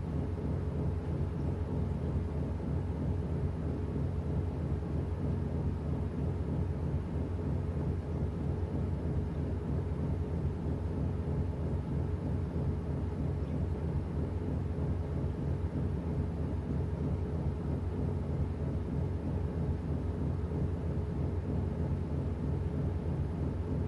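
Washing machine running with a steady low mechanical hum that holds at an even pitch and level.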